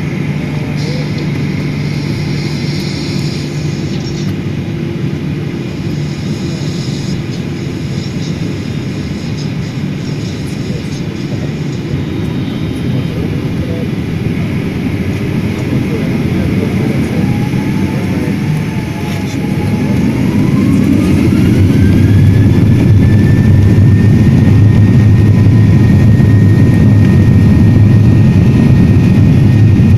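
Jet airliner engines heard from inside the cabin, a steady rumble at first. About two-thirds of the way in, the engines spool up with a rising whine that settles into a steady high tone as the rumble grows louder: takeoff thrust being applied for the takeoff roll.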